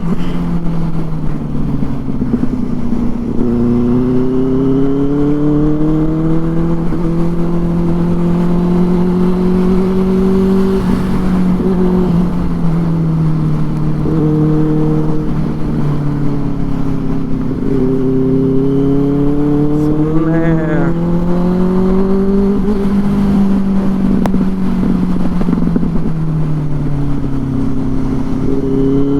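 Benelli 600i's inline-four engine running through an aftermarket IXIL exhaust while riding. Its pitch rises and falls slowly several times, dropping sharply about 3 s, 12 s and 18 s in as the throttle and gears change, over a constant low rush of wind on the mic.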